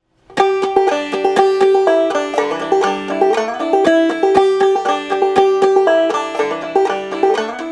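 Intro music: a fast plucked banjo tune in bluegrass style, with rapid picked notes.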